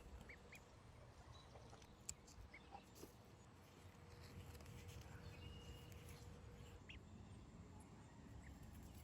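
Near silence: faint outdoor background with a low rumble, and a few faint, short bird chirps scattered through it.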